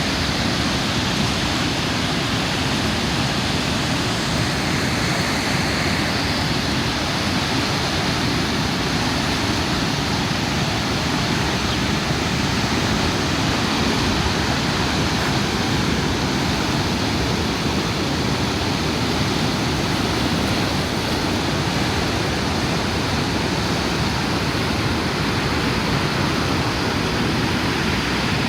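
Rain-swollen river rushing in flood: a loud, steady roar of fast water.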